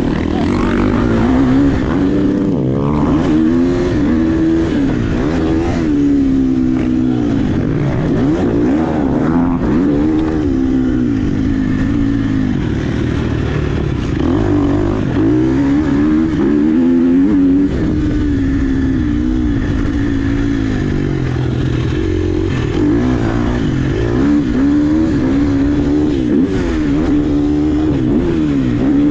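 Dirt bike engine revving up and down over and over as the bike is ridden hard, rising and falling in pitch every second or two.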